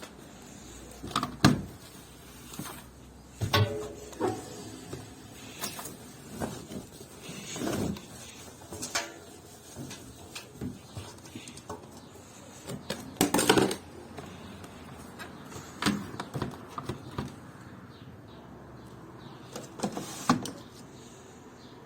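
Irregular knocks, clicks and thuds around a BEKO washing machine, spaced unevenly a second or two apart, with the loudest knocks about a second and a half in and again near the middle.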